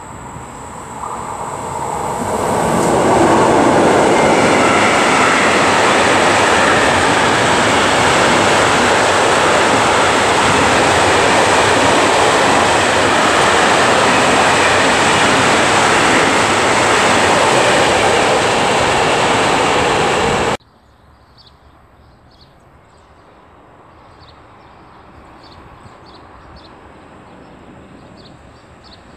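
Electric-hauled intermodal freight train passing close by: the noise builds over the first few seconds as the locomotive nears, then a loud, steady rolling rumble of the container wagons on the rails. About two-thirds through it cuts off abruptly, leaving a much quieter rumble from a distant train slowly getting louder, with faint high ticks.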